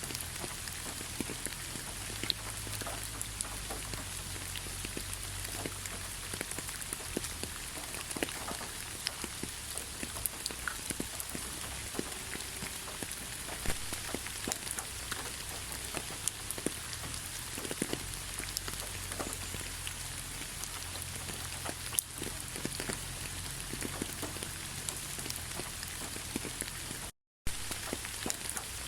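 Steady rain, an even hiss with many scattered individual drops ticking close by. The sound cuts out completely for a fraction of a second near the end, then resumes.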